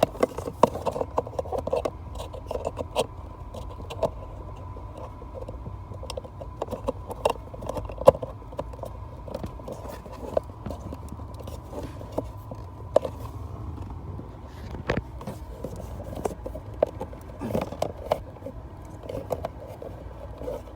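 Scattered clicks, taps and scrapes of an OBD-II scan tool's plug and cable being handled and pushed into the car's diagnostic port, with the engine off. A steady low hum runs underneath.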